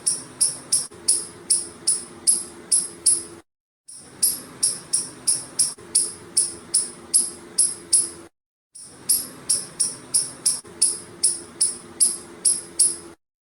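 Squirrel calling with short, sharp, high-pitched chirps, about three a second, in runs of four to five seconds broken by abrupt dead-silent gaps.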